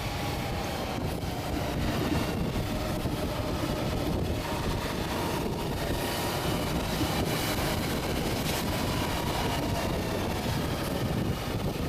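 Heavy truck's diesel engine running steadily, with a faint whine above it.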